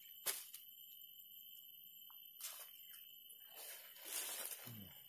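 Faint handling noises of fishing tackle: a sharp click early, then a short scrape and a longer rustle as the rod and bait are worked. A steady high-pitched whine runs beneath it all.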